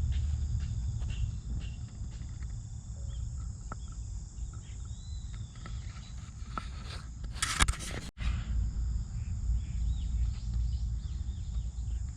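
Insects, likely crickets, chirring steadily in several high tones over a low rumble of wind on the microphone, with scattered small clicks. There is a loud brief rustle or knock about seven and a half seconds in, then a momentary dropout.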